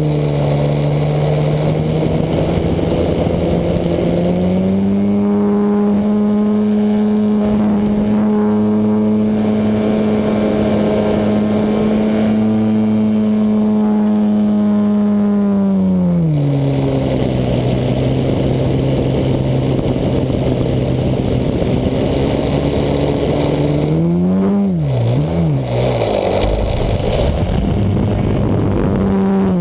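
Desert Aircraft DA-100 twin-cylinder two-stroke gas engine of an RC aerobatic plane running at high power, heard from on board. The engine speed rises about four and a half seconds in, holds steady, drops back around sixteen seconds in, then rises and falls quickly several times near the end as the throttle is worked.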